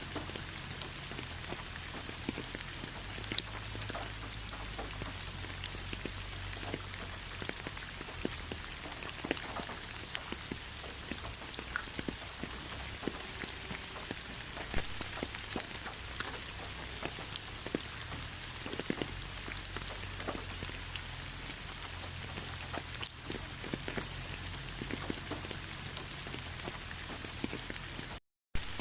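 Steady rain falling, with many individual drops striking close by over the even hiss of the downpour. The sound cuts out for a split second shortly before the end.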